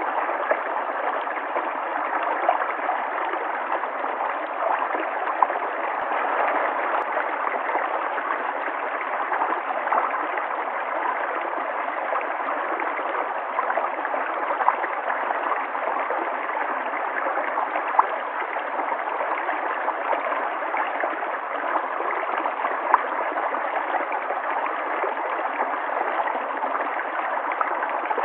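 River water flowing steadily, a continuous rush with small splashes and gurgles now and then.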